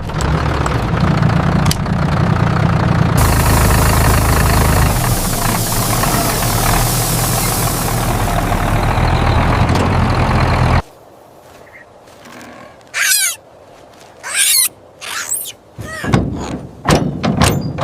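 Tractor engine running steadily, cutting off abruptly about eleven seconds in. Then a string of short, high squeals that sweep up and down.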